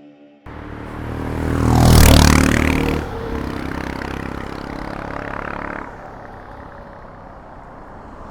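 A motorcycle passing close by: it swells to its loudest about two seconds in, then fades as it rides away.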